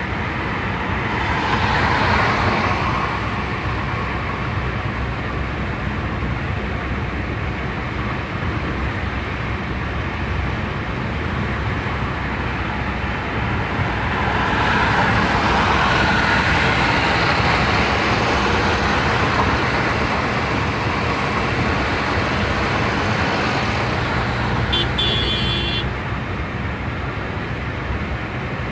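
A car driving at speed, with steady road and engine noise that swells louder twice for a few seconds. A short high-pitched tone sounds about three-quarters of the way through.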